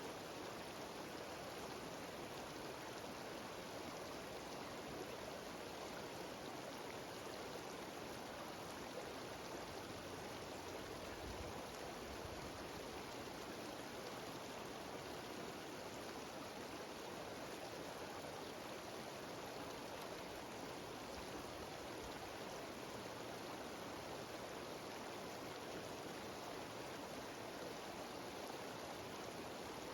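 Mountain stream cascading over a waterfall: a steady, even rush of water.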